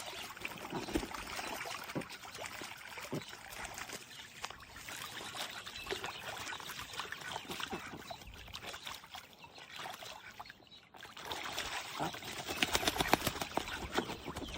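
Water splashing and trickling in a plastic dog pool as dogs wade about in it, busier and louder near the end.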